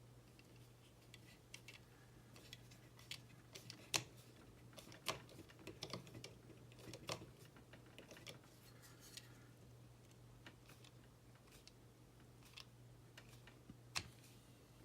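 Faint, scattered clicks and taps of small plastic model-kit parts and a small screwdriver being handled while screws are driven in, with a sharper click about 4 s in and another near the end, over a faint steady low hum.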